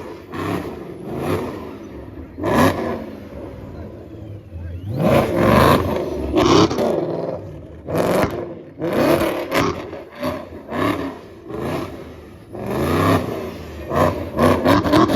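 Dodge muscle car V8 engines being revved hard in repeated short bursts, each rev climbing and dropping back, about a dozen times.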